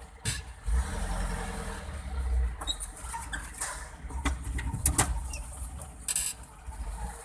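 Truck engine running with a steady low rumble as the truck is manoeuvred, with scattered clicks and knocks, the loudest about five seconds in.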